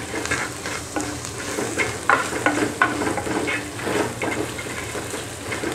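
Green chillies, ginger, garlic, curry leaves, coconut bits and urad dal sizzling in hot oil in a clay pot, while a ladle stirs and scrapes them around the pot in short repeated strokes.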